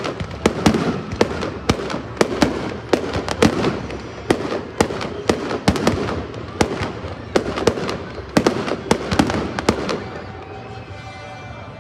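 Aerial fireworks shells bursting overhead in quick succession, a dense run of sharp bangs several a second that thins out and goes quieter about ten seconds in.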